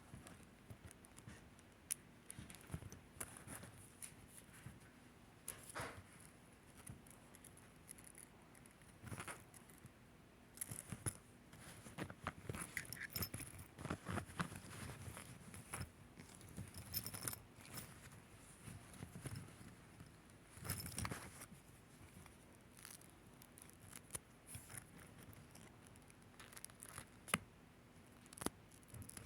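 Fidget toy being handled: faint, irregular clicks and scratchy rubbing, busier around the middle.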